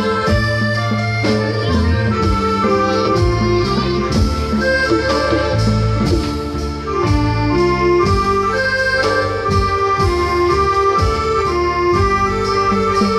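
Likay band playing an instrumental interlude between sung verses: a sustained melody line over a strong bass and an even drum beat.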